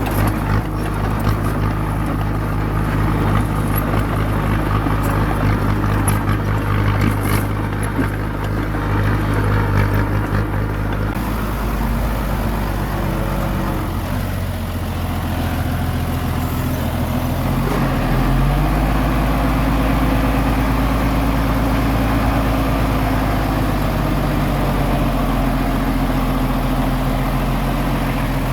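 Heavy diesel engine of a small bulldozer running under load. The sound changes abruptly about eleven seconds in, then the engine speed rises a little a few seconds later and holds.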